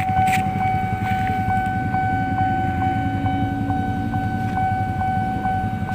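Long freight train rolling through a station, giving a steady low rumble and a steady whine, with a faint regular ticking about three times a second.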